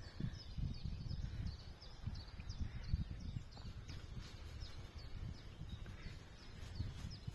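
A bird repeating short, high, downward-sliding chirps, about three a second, over a low rumble.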